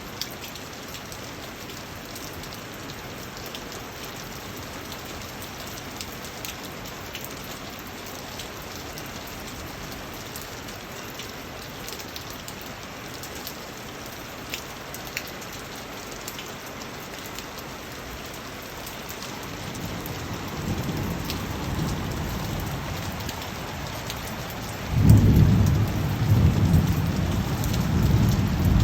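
Steady rain falling, with scattered individual drops ticking. About twenty seconds in, a low roll of thunder builds, and it grows loudest about five seconds later.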